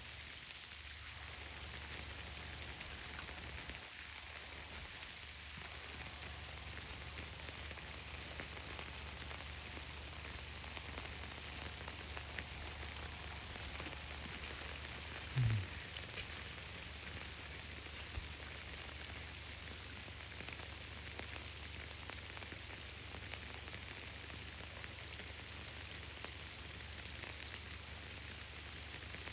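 Steady rain falling, an even hiss of drops on surfaces. About halfway through, a single dull thump stands out above it.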